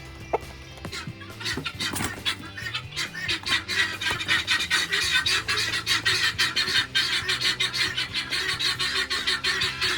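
Poultry calling in a fast run of short, harsh, repeated notes, several a second, starting about a second in, over background music with low sustained notes.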